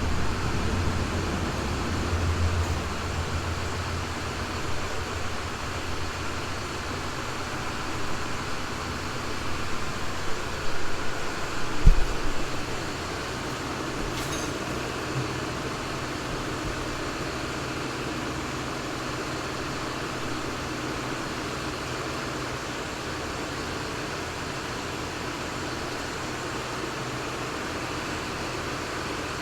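Steady mechanical hum, with a few low thumps in the first half and a single sharp knock about twelve seconds in.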